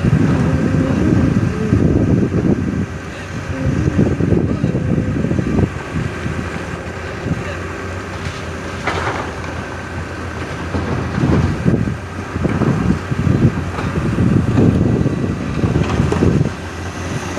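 Komatsu excavator's diesel engine running, with steady engine tones underneath, surging louder in low rumbling swells several times as the machine works.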